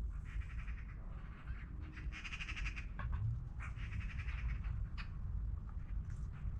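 A bird giving three harsh, raspy calls, each under a second long, over a steady low rumble, with a couple of sharp clicks in between.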